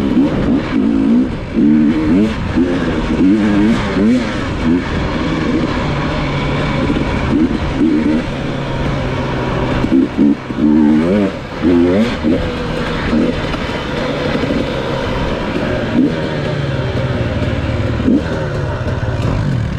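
Dirt bike engine revving up and down in quick blips as it works over rocky ground, then running at a steadier pitch in the second half.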